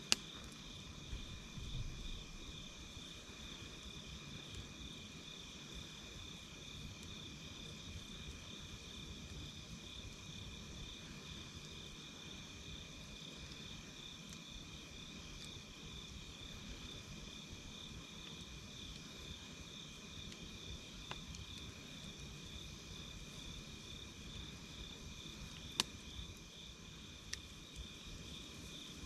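Night insects calling without a break: one with a fast pulsing high trill and another holding a steady, slightly lower high tone. A few sharp crackles from a wood campfire stand out about a second in and twice near the end.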